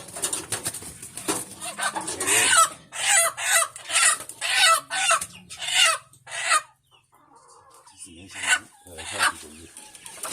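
Chickens clucking and squawking: a quick run of sharp calls about twice a second in the middle, then a few scattered calls.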